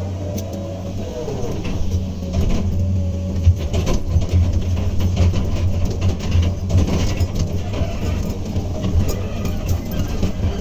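Hydraulic excavator's diesel engine running under working load, its level rising and falling from about two seconds in.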